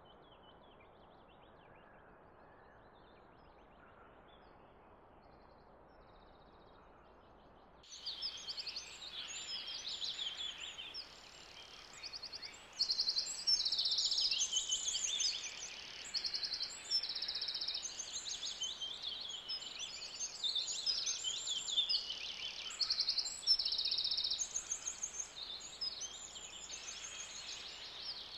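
Faint steady background noise, then, about eight seconds in, a busy chorus of small songbirds chirping and trilling over steady outdoor noise.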